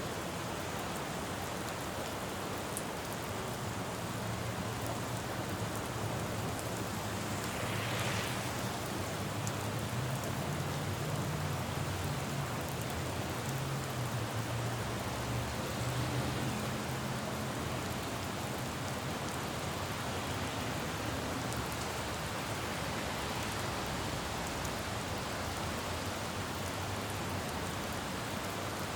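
Steady rain falling on a road, with traffic: through the middle a vehicle's low engine hum swells and fades, and about eight seconds in there is a brief swish of tyres on wet pavement.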